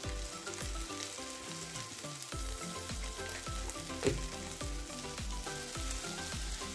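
Spiced ginger-garlic and green-chilli masala sizzling as it fries in oil in a kadai. A faint background music beat, about two low thumps a second, runs underneath.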